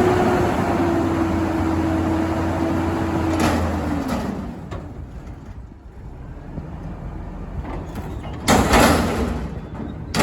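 Garbage truck engine held at high revs, then letting off about four seconds in and falling to a quieter idle. Near the end there is a short, loud hissing burst.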